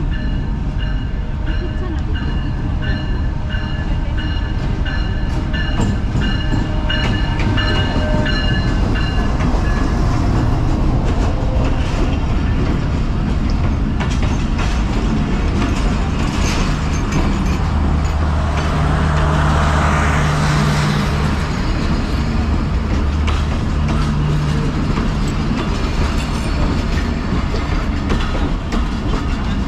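Pakistan Express train with its GEU-40 diesel-electric locomotive moving through the station, a steady low rumble of diesel engine and rolling stock. Faint high steady tones sound over the first third, and the low engine note swells with a hiss about twenty seconds in.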